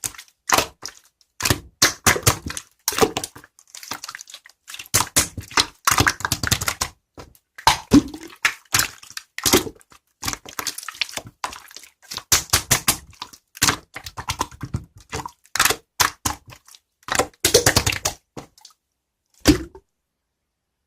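Slime being squeezed, poked and stretched by hand: a dense run of sticky pops, clicks and crackles in uneven clusters, stopping about a second before the end.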